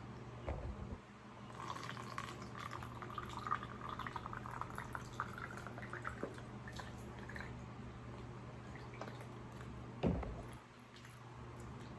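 Liquid poured into a glass or cup, the pitch of the filling rising for about six seconds with small splashes, then a single dull knock near the end, like the container set down on the table.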